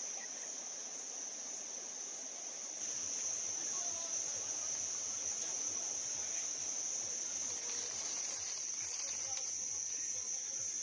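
A chorus of forest insects trilling steadily at one high pitch, growing a little louder about three seconds in.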